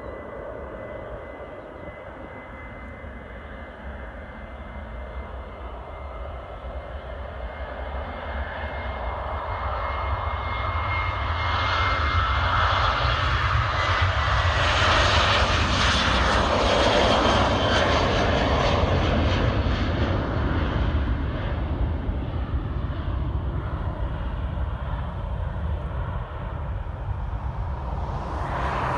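Boeing 737-800's CFM56 jet engines at takeoff power as the airliner passes: a steady high whine early on, then the engine noise builds to its loudest about halfway through and slowly fades.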